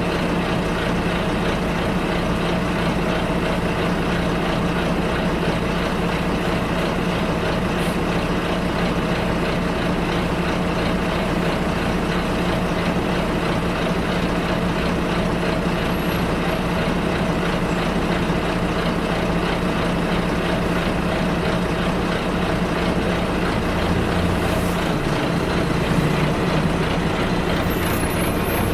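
Bus ride heard from inside the bus: the engine runs steadily under a constant rumble of road noise, and its low note shifts briefly near the end.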